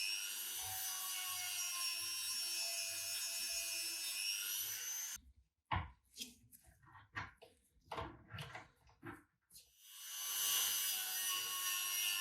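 A power tool runs steadily with a whining motor note while grinding or sanding. It cuts off abruptly about five seconds in, then a few seconds of scattered knocks and scraping follow, and the tool starts running again near the end.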